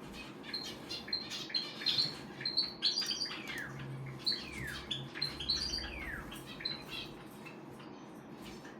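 Java sparrow fledgling chirping: a run of short high chirps, with several sharply falling calls in the middle.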